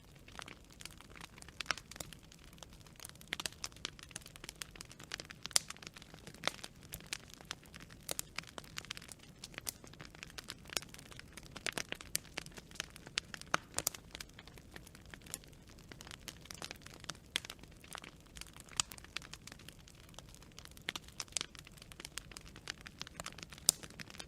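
Wood fire crackling: irregular sharp pops and snaps from burning branches over a faint low hiss.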